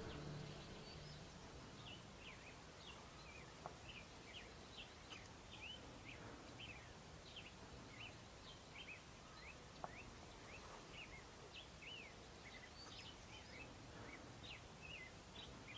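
Faint chirping of small birds: many short, high calls, several a second, over a quiet hiss, with two faint clicks.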